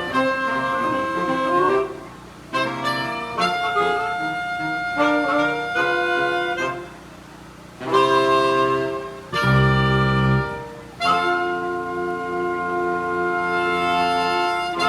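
Saxophone quartet playing a Hakka folk melody in close harmony, in phrases separated by short breaks. A deep baritone note sounds about ten seconds in. The group closes on a long held chord near the end.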